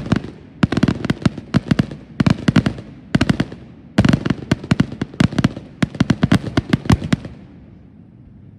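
Fireworks going off in quick strings of sharp cracks, many reports a second, in bursts with short gaps between them. The strings stop about seven seconds in.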